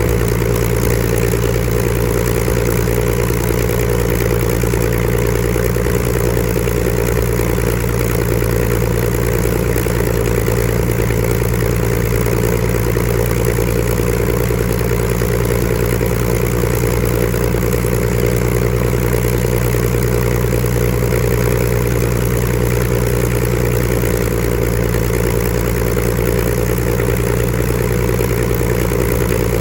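Rolls-Royce Griffon V12 engine of a Supermarine Spitfire Mk XIV running steadily on the ground, holding an even speed with no revving.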